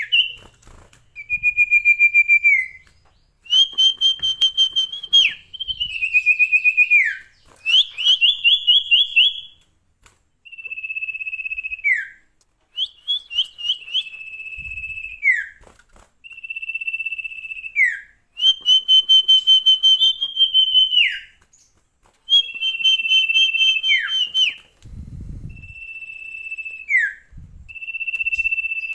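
A sirtu songbird singing hard and without pause: loud, repeated high whistled phrases, some held steady and some rapidly trilled, most ending in a quick downward slide, about one every one to two seconds.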